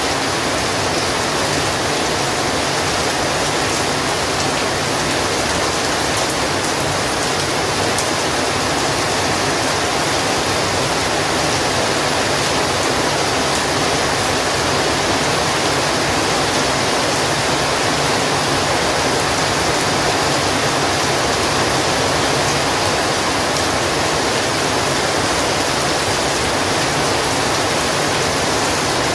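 Heavy rain falling in a steady, dense hiss, unchanging throughout.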